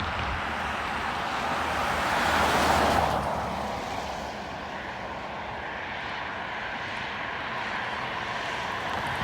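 Jet airliner engines passing on the runway: a broad rushing noise swells to a peak about three seconds in, then eases off, leaving a fainter steady whine.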